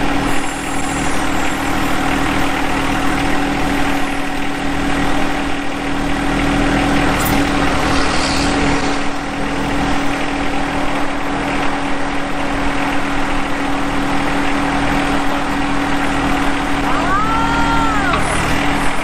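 John Deere 1025R compact tractor's three-cylinder diesel engine running steadily at idle. Near the end a brief whistle-like tone rises and falls once.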